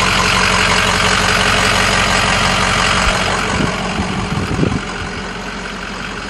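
2007 Ford F550 truck engine idling steadily with no knocking. The sound drops a little past the middle, with a few short irregular sounds over it.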